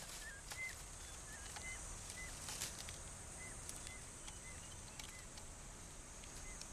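Faint forest ambience: a bird gives short, hooked chirps, one or two a second, over a steady high-pitched insect drone.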